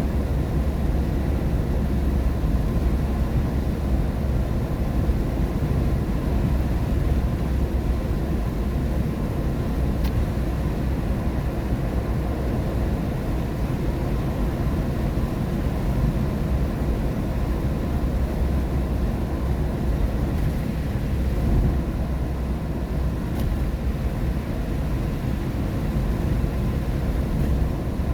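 Steady low rumble of tyres and road noise heard inside a car's cabin while driving on a rain-wet highway.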